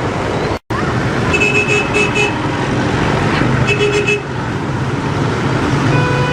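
Vehicle horn honking: three quick beeps, then one more a couple of seconds later, over a loud steady rushing noise, with a steady horn-like tone starting near the end.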